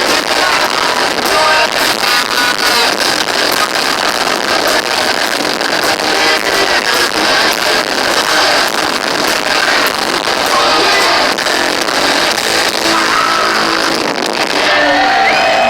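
Heavy metal band playing loud live with distorted guitars, recorded from the audience with harsh, distorted sound and almost no bass.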